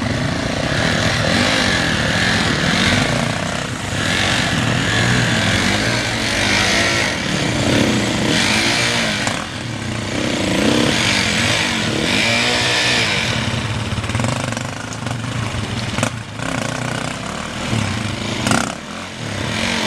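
Dirt bike engines running and being revved, the pitch rising and falling in several surges near the middle.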